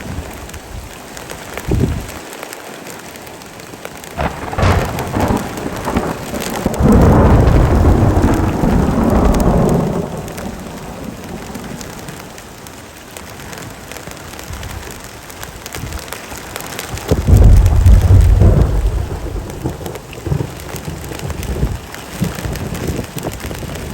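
Heavy rain falling steadily, with two long rolls of thunder: one starting about four seconds in and lasting several seconds, and a second, shorter one near the end.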